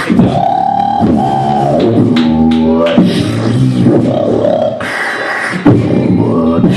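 Beatboxing: sharp mouth clicks and pops mixed with long, wavering pitched vocal tones.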